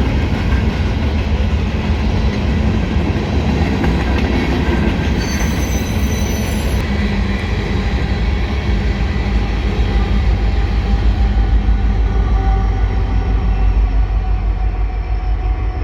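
Train rolling past at close range: a steady rumble of wheels on the rails, with a brief faint high wheel squeal about five seconds in.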